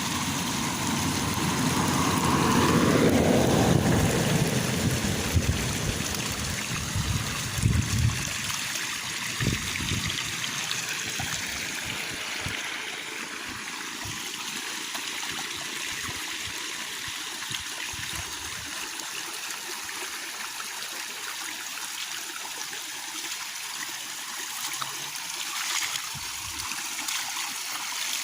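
Heavy rain falling steadily, with strong wind gusts buffeting the microphone in the first ten seconds or so, loudest about three to four seconds in, then easing to occasional low thumps under the rain.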